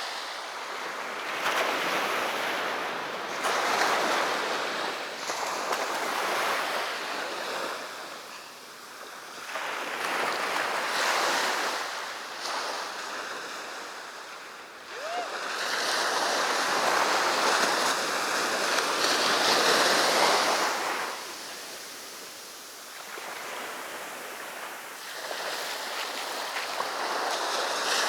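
Sea waves breaking on the beach and washing up the shore, a hiss that swells and falls in slow surges every several seconds.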